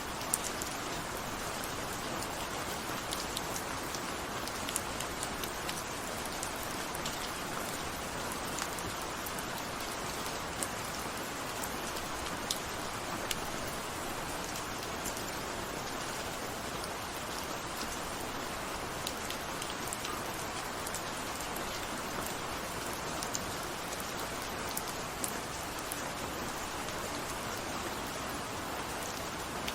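Steady rain falling, an even hiss with scattered sharp drips striking a surface.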